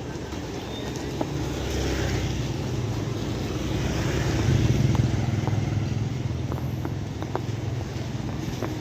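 Steady rain falling, with scattered drip-like taps. Under it, a low rumble builds to a peak about five seconds in and then fades.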